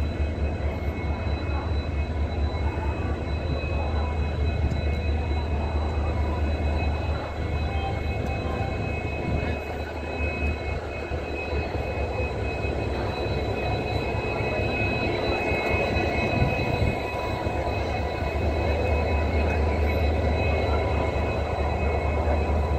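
Passenger train coaches rolling past at close range: a steady low rumble with thin, steady high tones over it.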